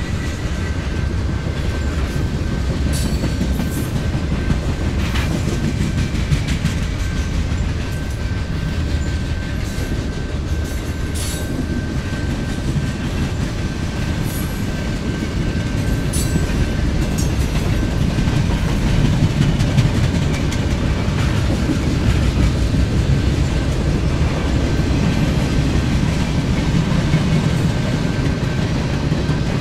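Ride noise inside the front of a Yurikamome rubber-tyred automated guideway train running along its elevated track: a steady low rumble that grows louder after the middle, a faint steady whine, and a few scattered clicks and knocks.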